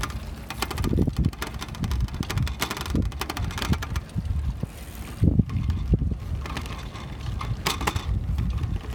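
Wind buffeting the microphone of a hand-held phone during a bike ride: a low rumble with frequent small knocks and clicks.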